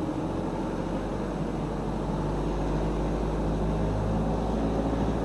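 Car engine and road noise heard from inside the cabin while driving at a steady pace: a steady low drone with no sudden events.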